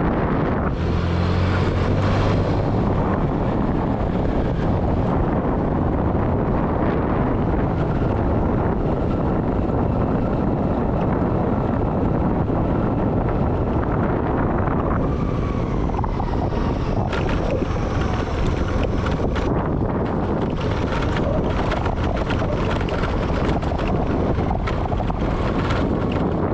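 Wind buffeting the microphone of a moving vehicle, over a steady low rumble of the ride, with a few sharp knocks and clicks in the second half.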